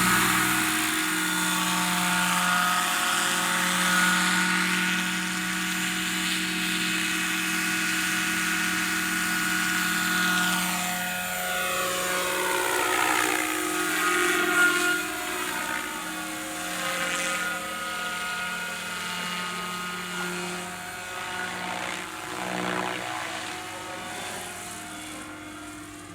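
Helicopter in flight, a steady engine hum with a higher whine over it, moving about and growing fainter over the last few seconds.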